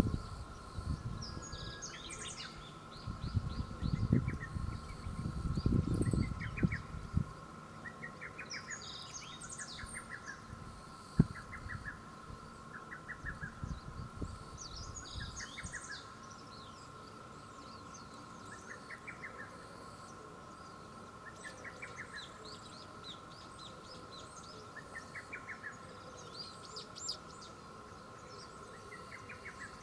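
Birds calling: short runs of quick repeated notes every couple of seconds, with higher chirps over them, above a steady high hum. Low rumbles in the first seven seconds and a single sharp click about eleven seconds in.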